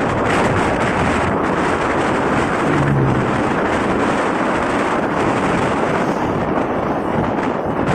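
Steady wind rushing over the microphone of a moving motorcycle, mixed with engine and traffic noise. A short low tone sounds about three seconds in.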